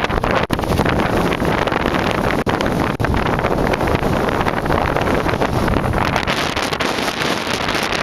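Violent wind buffeting the camera's microphone: loud, continuous rushing noise, with a few momentary drops in level.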